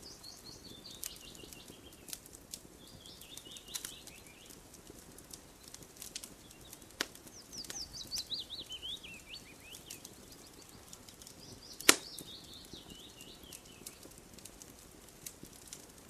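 Wood fire crackling with scattered sharp pops, one loud pop about twelve seconds in, while a songbird sings several falling, trilled phrases.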